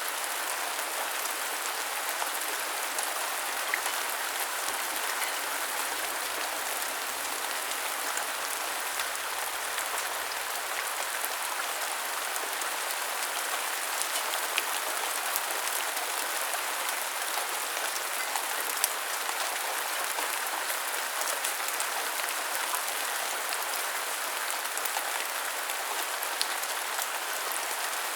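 Steady rainfall, an even hiss with scattered sharp ticks of individual drops.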